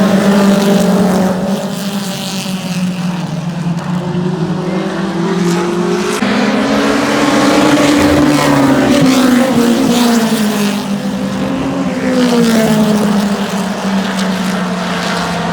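Pack of oval-track stock cars running laps, their engines loud and steady, the pitch rising and falling as groups of cars pass, with one swell a little past the middle and another near the end.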